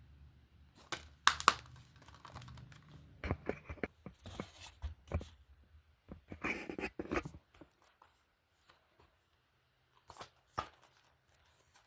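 Handling noises: scattered clicks and knocks of hard plastic, with a short burst of rustling, like crinkly wrapping, about six and a half seconds in. A faint low hum stops about seven and a half seconds in.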